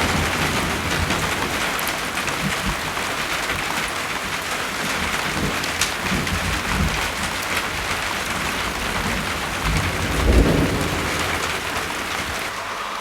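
Steady rain with thunder rumbling low throughout, swelling to a louder rumble about ten seconds in.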